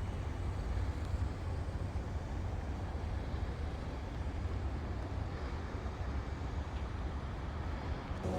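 Steady traffic noise from a multi-lane highway, a continuous low rumble of passing vehicles.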